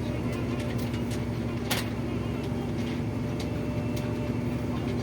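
Tour bus engine and road noise droning steadily inside the cabin, with scattered light clicks and rattles.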